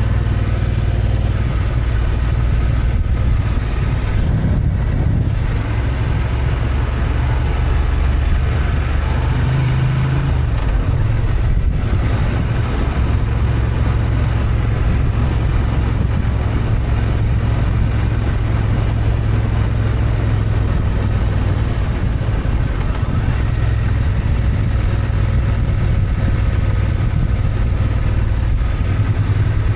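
Honda XL750 Transalp's parallel-twin engine running under way, a steady low drone whose pitch shifts a few times, as around 5 and 10–12 seconds in, over a haze of wind and road noise.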